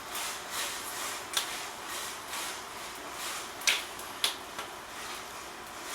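Fire burning in the firebox of a brick fireplace: a steady hiss with scattered sharp crackles and pops, the loudest a little under four seconds in.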